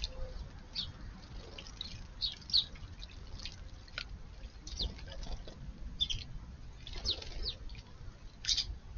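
House sparrows chirping: short, high chirps scattered irregularly, several a second at times.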